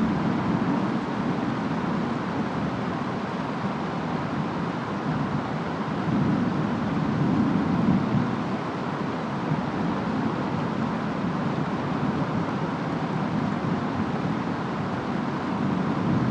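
Steady rainstorm noise with wind and a low rumble that swells about halfway through and again near the end.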